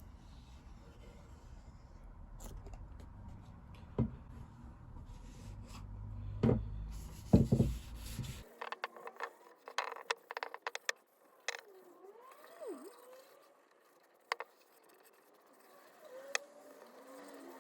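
Workshop handling sounds on a guitar: scraping with a low hum underneath and a few sharp knocks, which cut off abruptly about halfway through, followed by scattered light clicks and taps.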